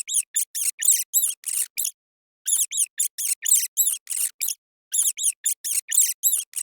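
A small animal's rapid, high-pitched squeaks, in three bursts of about eight to ten squeaks each, with short gaps of silence between the bursts.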